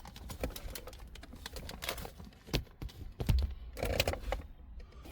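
Irregular light plastic clicks, taps and a few dull knocks as the radio head unit is handled and drawn out of the dashboard, with a brief scrape near the end.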